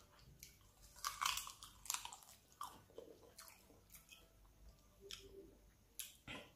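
A person chewing and biting spicy chicken feet, with irregular sharp mouth clicks that are densest about a second in and come again near the end.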